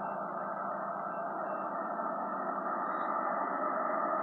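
Steady distant rumble of an approaching freight train's diesel locomotives, slowly growing louder.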